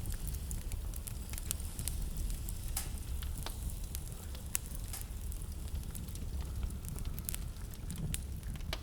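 Fireplace wood fire crackling, with irregular sharp pops and snaps over a steady low rumble.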